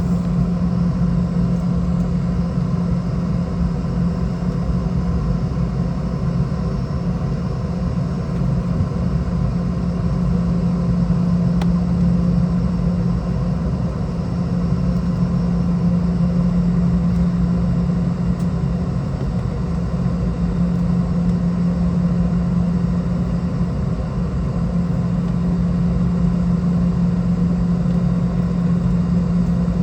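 Steady drone inside the cabin of a Boeing 717-200 from its two rear-mounted Rolls-Royce BR715 turbofan engines, a constant low hum over a rumble with no change in pitch.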